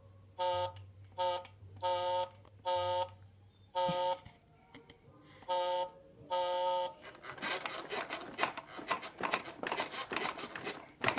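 Short electronic beeps from a child's battery-powered ride-on toy motorcycle: about eight identical beeps at uneven intervals, like a button pressed again and again. Near the end, a few seconds of crackling, rustling noise.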